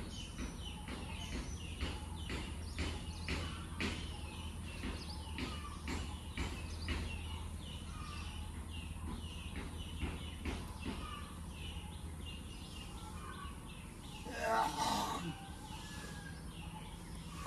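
Birds chirping over and over, short calls each falling in pitch, about two a second, over a low steady hum that fades out about twelve seconds in. Near the end a single louder cry falls in pitch over about a second.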